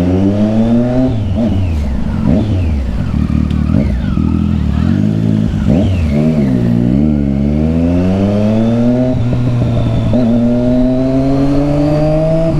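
Triumph Street Triple 675's inline-three engine through a loud Yoshimura exhaust, riding under load: revs climb, drop sharply at gear changes or throttle lifts, and climb again several times, rising once more near the end.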